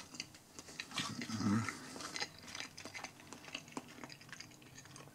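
A person chewing a mouthful of meatball snack, with many small wet mouth clicks and a short low hum about a second and a half in.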